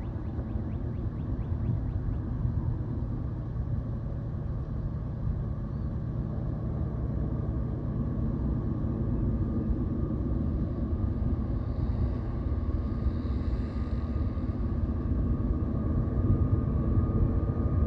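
Distant Union Pacific diesel locomotives of an approaching train, a steady low rumble that grows slowly louder near the end.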